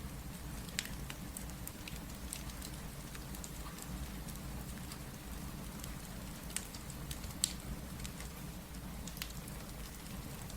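Steady rain with a wood fire crackling over it: scattered sharp pops every second or so, the loudest about three quarters of the way through.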